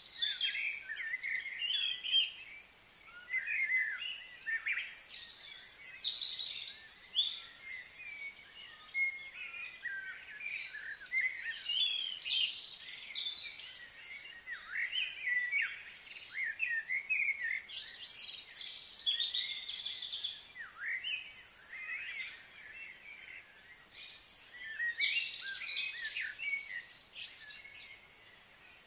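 Wild birds singing and chirping, several at once, in a busy chorus of quick high rising and falling calls.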